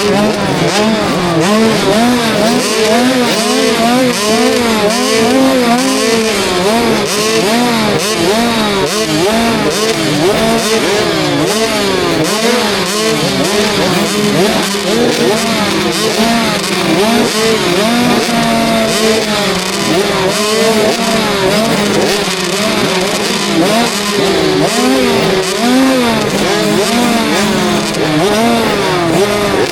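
KTM 65 SX two-stroke motocross engine ridden hard, its pitch rising and falling over and over as the throttle is opened and closed through the gears. It is heard from a helmet camera, with a steady rush of wind and track noise underneath.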